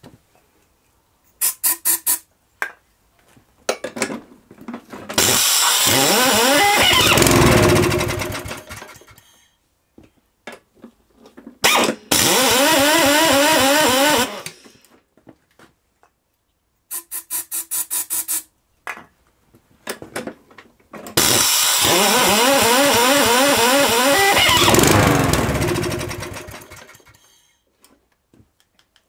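Homelite V35 lawnmower engine being pull-started: it catches three times, runs a few seconds with its speed wavering up and down, then dies away each time. It runs poorly and won't keep going.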